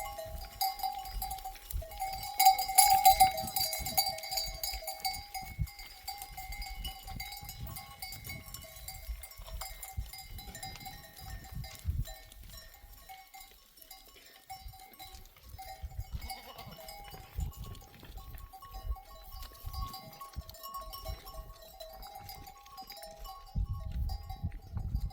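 Bells on a grazing flock of sheep ringing and clanking steadily, loudest about two to four seconds in, over scattered low thuds.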